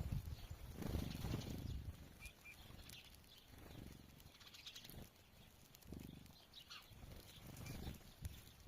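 Birds calling: short, high chirps come now and then. Low, soft swelling sounds come roughly every two to three seconds.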